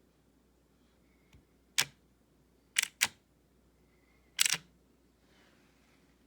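Steering motor of a CaDA LEGO-compatible toy race car, driven left and right by Bluetooth remote control. It makes four brief, sharp clicking bursts: one a little under two seconds in, a quick pair about a second later, and one more halfway through.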